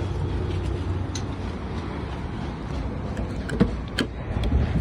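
Hyundai Accent's petrol engine idling steadily on its CNG kit, heard as a low rumble, with a couple of clicks near the end as the driver's door handle is pulled.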